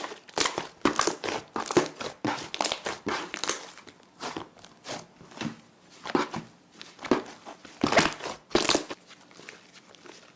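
Slime being handled, giving an irregular run of short, sharp sounds, densest in the first few seconds and again about eight seconds in, then thinning out near the end.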